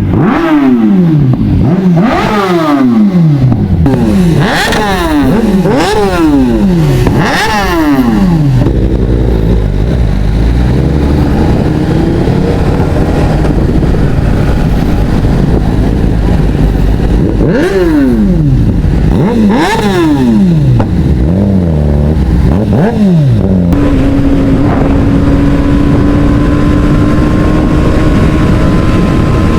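Motorcycle engines, one after another, each note sweeping quickly down in pitch, in two clusters. Between and after them an engine runs at a steadier note, ending on one held, slowly rising tone.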